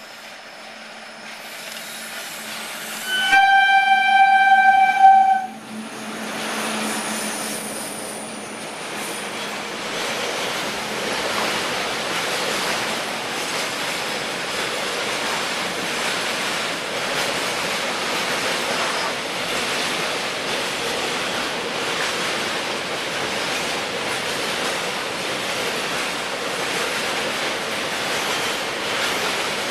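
A WAG-7 electric locomotive sounds its horn once, a single blast of about two seconds a few seconds in. A long container freight train then rolls steadily past, its wagon wheels running on the rails.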